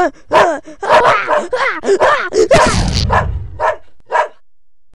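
Dog barking and snarling in a quick run of short barks lasting about four seconds, with a rougher, noisier stretch near the middle.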